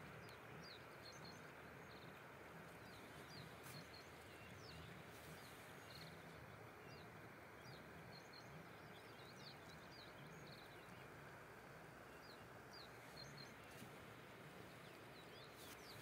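Faint outdoor ambience at a pond: small birds chirping in many short, high calls scattered throughout, over a steady low hiss.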